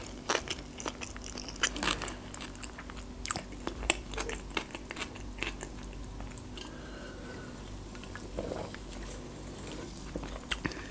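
Close-miked mouth sounds of chewing a sushi roll: wet clicks and smacks, many in the first half. It goes quieter for the rest while she sips from a drink can.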